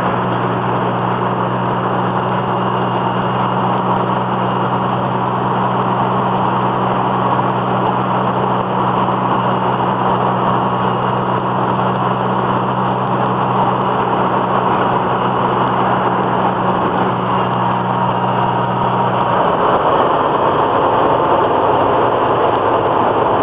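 Interior noise of a twin-turbo Datsun Z-car on the move: a steady engine drone and road noise. A low hum underneath drops away near the end.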